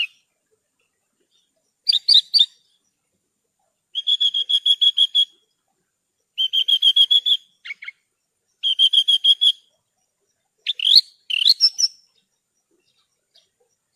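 Javan bush lark (branjangan) singing: short phrases of fast, evenly repeated chirping notes, several phrases a couple of seconds apart. The song stops about twelve seconds in.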